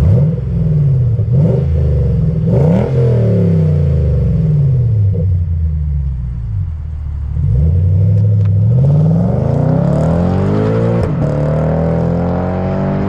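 Lexus IS 500's 5.0-litre 2UR-GSE V8 through an ARK Performance GRiP catback exhaust, revving: the engine note climbs and falls several times, then makes a long climb in the second half with a brief drop and rise again near the end.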